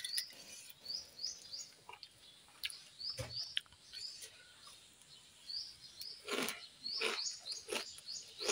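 A small bird chirping again and again in short, rising chirps, with a few brief crunches of puffed-rice mixture being chewed, the loudest about six to eight seconds in.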